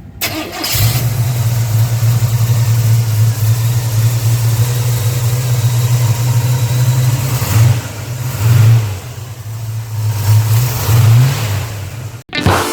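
1970 Chevrolet C10's 395 cubic-inch V8 running with a steady low rumble. It is revved briefly about eight seconds in and again near the end.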